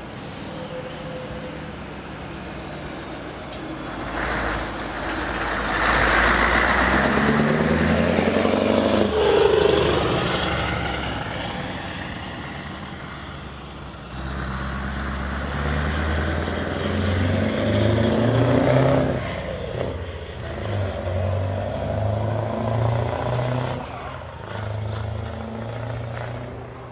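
Scania V8 diesel truck with loud exhaust pipes pulling away under hard acceleration. The engine note climbs and drops back in steps as it shifts through the gears, loudest twice.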